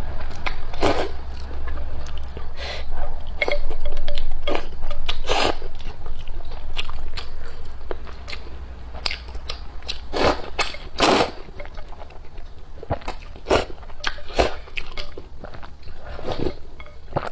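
Close-miked eating sounds of someone chewing and biting into noodles: irregular wet smacks and clicks, with a few louder ones about five, ten and eleven seconds in.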